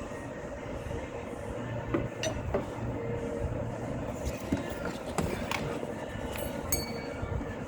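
Scattered light metallic clicks and clinks of hand tools against the engine, over a steady low hum.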